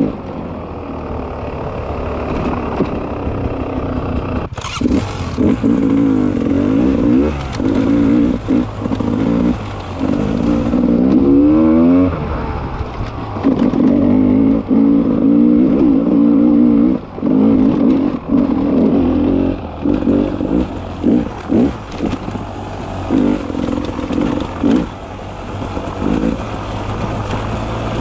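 Beta 300 RR single-cylinder two-stroke enduro motorcycle engine riding on and off the throttle, its pitch rising and falling with many short drops where the throttle is shut. A sharp knock about four and a half seconds in.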